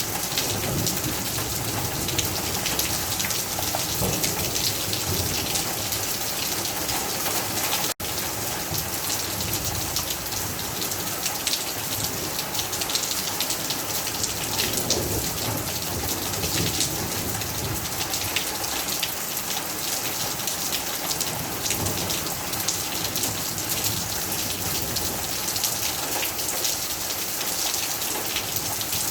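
Heavy rain falling steadily, a dense even hiss of drops on surfaces. It cuts out for an instant about eight seconds in.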